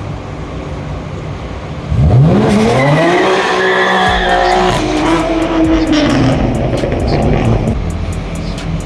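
A car's engine revving hard as it pulls away: about two seconds in its pitch sweeps steeply up, holds high for a few seconds, then drops and fades.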